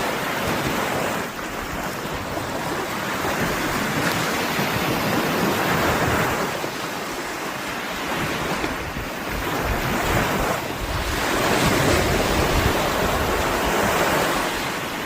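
Baltic Sea surf breaking on the shore, a rushing wash that swells and falls back every few seconds, with wind buffeting the microphone.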